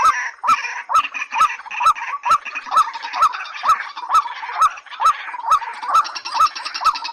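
Rail calls, the white-breasted waterhen and watercock: a short hooked note repeated evenly about twice a second, with harsher, higher chattering calls layered over it that grow denser near the end.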